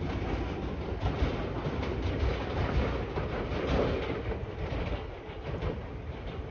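Electric train running on the rails: a steady rumble with the clatter of wheels over rail joints.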